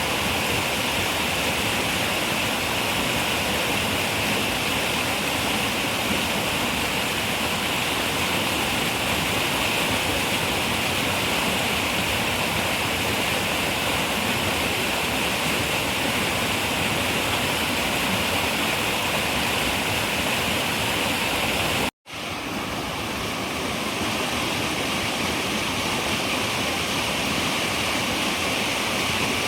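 Running river water, a steady rushing wash. About three-quarters of the way through it cuts out for an instant and fades back in, a break in the recording.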